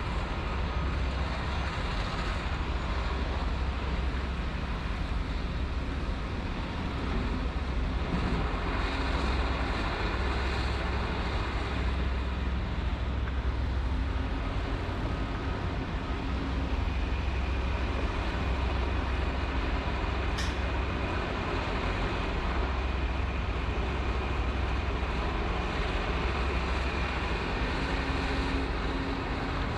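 Diesel engines of heavy construction machinery running steadily, a continuous low rumble, with one sharp click about twenty seconds in.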